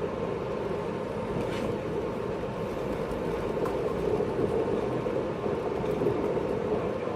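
Running sound of a 583-series electric train, heard inside motor car MoHaNe 582-106: a steady rumble of wheels and running gear with a couple of faint clicks.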